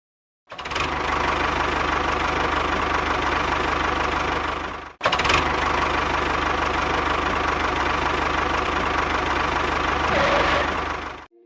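A motor running steadily, starting about half a second in, breaking off for an instant about five seconds in, then running on and stopping abruptly just before the end.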